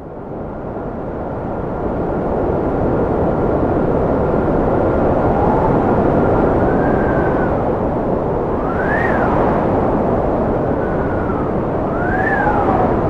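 Cold wind blowing hard and steadily, with a whistling howl that rises and falls in pitch several times. It fades in from silence at the start and builds over the first couple of seconds.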